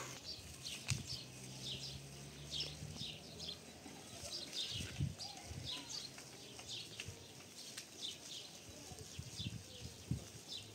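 Small birds chirping over and over in short, high, falling chirps, about one or two a second, with a few soft low thumps under them.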